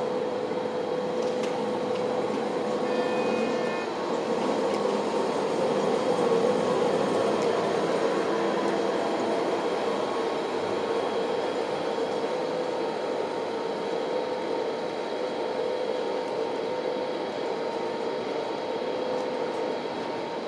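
DB Class 112 electric locomotive hauling n-Wagen regional coaches out of the station. A steady electric hum runs under the noise of the coaches' wheels rolling past.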